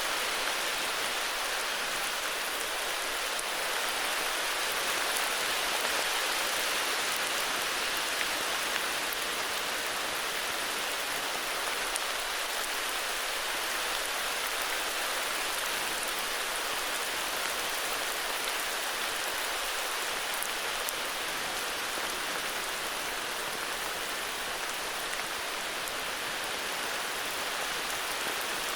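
Heavy rain falling steadily, an even hiss of countless drops with faint scattered ticks of individual drops.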